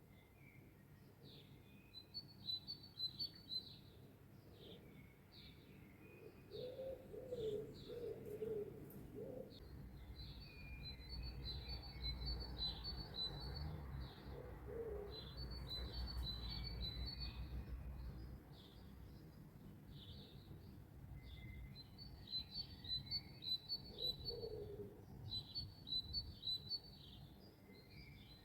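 Songbirds singing in repeated short, high chirping phrases. A dove coos low a few times, over a low rumble that swells in the middle and fades again.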